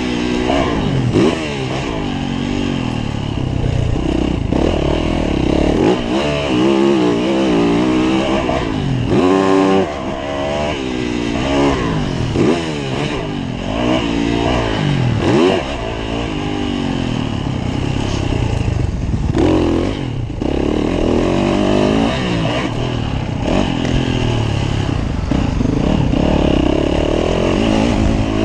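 Yamaha YZ450F motocross bike's single-cylinder four-stroke engine revving hard and dropping back again and again as it is ridden around a motocross track, the pitch climbing and falling every second or two through the gears and corners, with some clatter from the bike.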